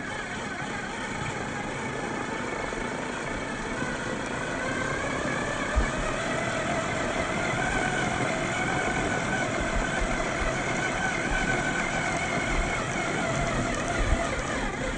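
Scale RC crawler's brushed 540-size electric motor and gear drivetrain whining as it drives, the pitch rising and falling with the throttle. Two short knocks, about six seconds in and near the end.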